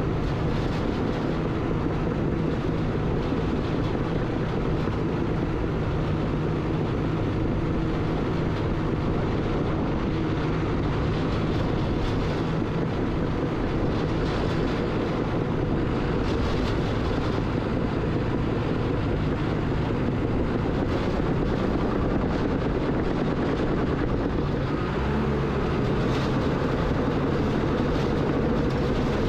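Bulldozer's diesel engine running steadily, with a slight change in engine pitch near the end.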